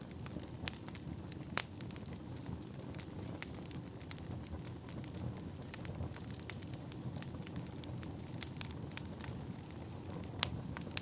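Wood fire burning: a steady low rush with scattered crackles and sharp pops, a couple of louder pops near the start and one near the end.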